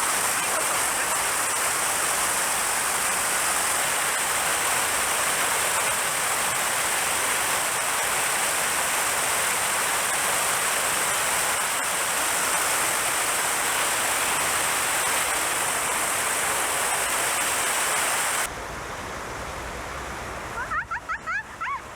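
Mountain stream water rushing in a steady, loud hiss, which cuts off suddenly near the end to a quieter background.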